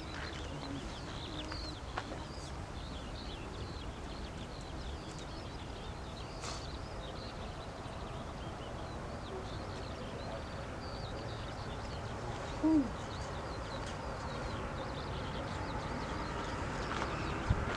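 Outdoor background with steady low rumble and many small bird chirps throughout, and one short low hoot, the loudest sound, about thirteen seconds in. The rumble grows slightly louder near the end.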